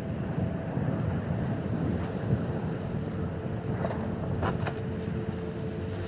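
Steady low rumble of wind buffeting the microphone, with a couple of faint sharp clicks about four and a half seconds in.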